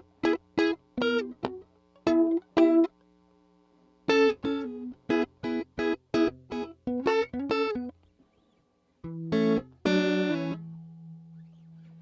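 Guitar played through a JHS 3 Series Flanger pedal: a run of short, clipped notes and chords, a brief pause, then a couple of chords left ringing and fading out.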